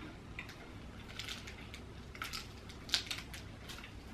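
Faint crunching of a chocolate-covered Kit Kat wafer being bitten and chewed: a scatter of short, crisp cracks, the loudest about three seconds in.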